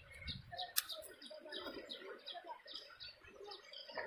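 Small birds chirping, short high calls repeating about three times a second.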